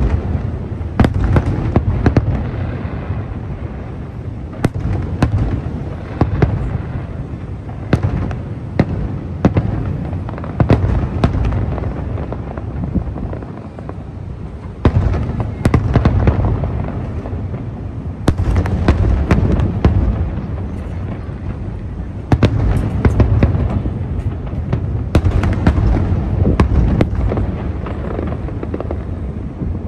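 Fireworks display: aerial shells bursting in rapid clusters of sharp bangs over a continuous low booming. The denser volleys come every few seconds.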